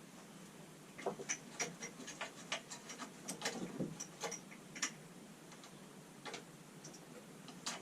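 Irregular sharp clicks and light taps of hand tools and small metal parts being worked on a mower engine while a stiff fuel pipe is being worked loose, mostly bunched from about a second in, with a few more near the end.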